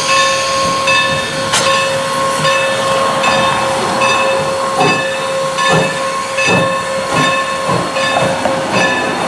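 Norfolk & Western 4-8-0 steam locomotive No. 475 hissing steam as it moves slowly. A steady tone runs through the hiss, with a regular beat of short strokes repeating under a second apart and low pulses coming in about halfway through.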